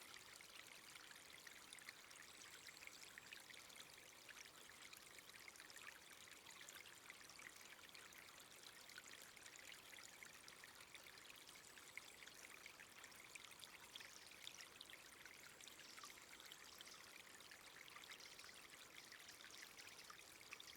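Faint steady hiss of running water with light crackling ticks.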